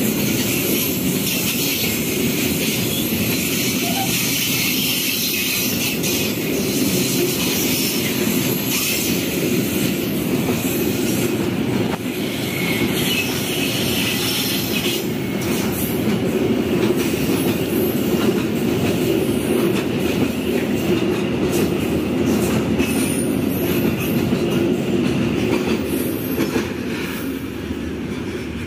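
Container freight train's loaded flat wagons rolling past at close range: a steady rumble of steel wheels on rail with a high screech from the wheels and clacking over the rail joints. It grows a little quieter near the end as the last wagons move away.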